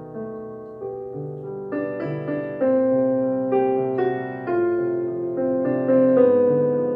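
Solo piano playing a slow, dissonant minor-key piece, with chords and held notes struck every half second or so and growing louder partway through.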